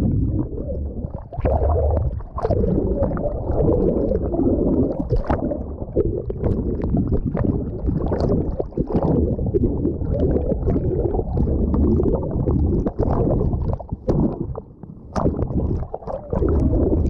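Water sloshing and gurgling around a GoPro at the water's surface as a swimmer moves, a loud, irregular low churning with small splashy clicks.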